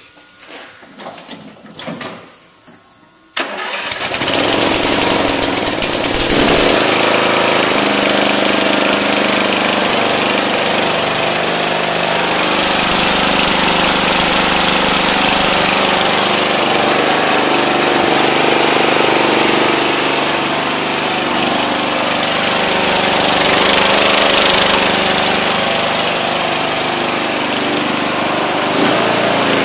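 Riding garden tractor's small engine starting up about three seconds in, then running steadily. Its exhaust has been side-piped but still passes through a large muffler.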